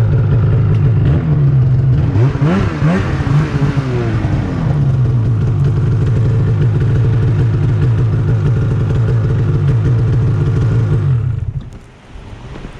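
Snowmobile engine running steadily under way, its revs rising and falling briefly about two to four seconds in. The engine sound drops away sharply near the end.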